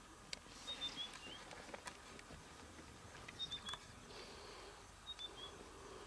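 A bird calling faintly: three short phrases of three or four quick high notes, each note falling slightly, about two seconds apart.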